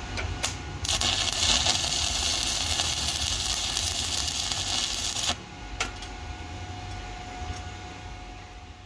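Stick (SMAW) welding arc crackling and hissing, striking abruptly about a second in and breaking off about four seconds later, over a low steady hum.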